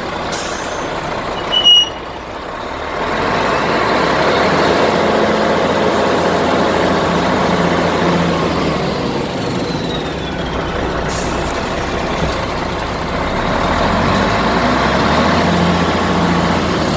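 Mercedes-Benz Actros 2643 truck's diesel engine running, with a brief sharp burst under two seconds in. The engine grows louder about three seconds in, eases off around the middle and rises again near the end.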